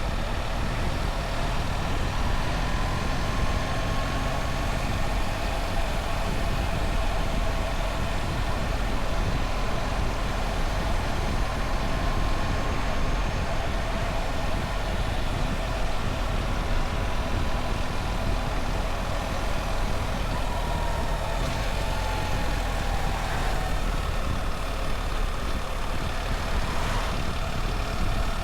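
BMW R1300 GS motorcycle's boxer twin engine running steadily on the move, over a continuous low rumble; the engine note falls briefly a little after twenty seconds in.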